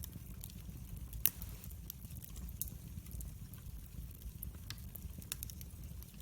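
Wood fire burning in a fireplace: a steady low rumble of flame with scattered crackles and pops, one louder pop about a second in.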